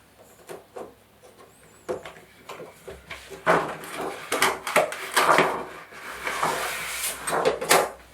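Handling sounds of TV parts during disassembly: a few light clicks, then from about three seconds in a run of scraping, rustling and knocking strokes.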